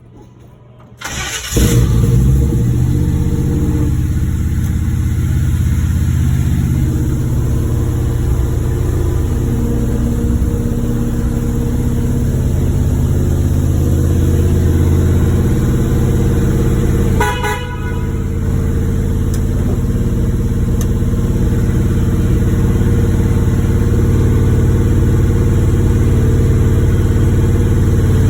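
1963 Chevrolet Bel Air engine cold-starting: it catches about a second and a half in and then runs steadily. A short higher-pitched tone, like a horn toot, cuts in briefly about seventeen seconds in.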